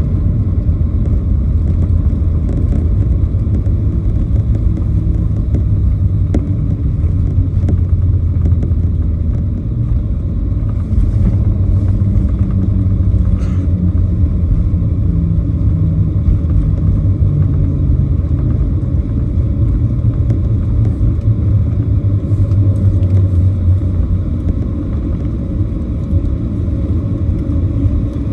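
Cabin rumble of a Boeing 737-700 rolling on the ground after landing, its engines running with a steady low drone. About halfway through, a tone falls slowly in pitch as the engines spool down.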